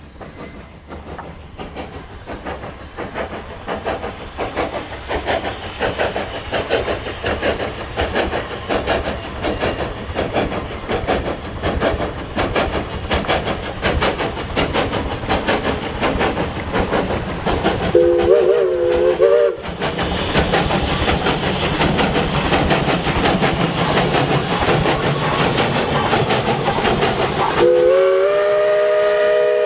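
McCloud #18 steam locomotive approaching, its exhaust chuffing rhythmically and growing louder. Its chime whistle blows a short blast about two-thirds of the way in, then a long blast near the end.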